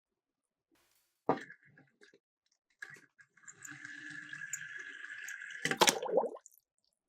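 A miniature toy car knocks onto a plastic slope, rolls down it with a steady whirring rattle for about three seconds, then drops into water with a splash.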